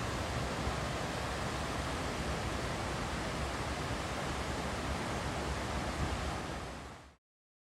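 Steady rushing outdoor noise of the kind made by moving water or wind, even across low and high pitches. It fades out about seven seconds in, followed by dead silence.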